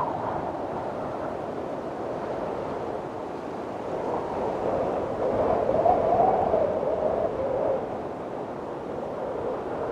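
Strong wind blowing steadily. A louder gust swells about five seconds in, with a wavering whistling pitch, and eases off about eight seconds in.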